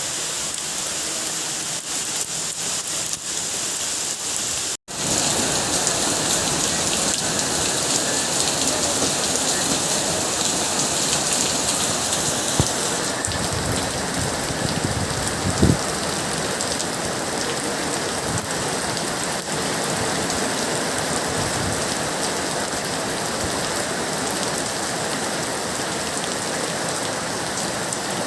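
Steady rain falling and pattering on surfaces, a dense even hiss. It breaks off for a moment about five seconds in and comes back a little louder. There is one short low thump about halfway through.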